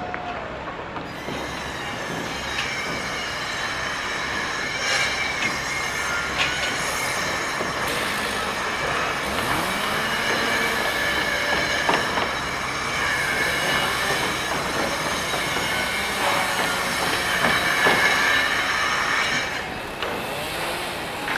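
A sustained, high-pitched metallic squeal made of several steady high tones over a rumbling noise bed. It starts about a second in and stops shortly before the end.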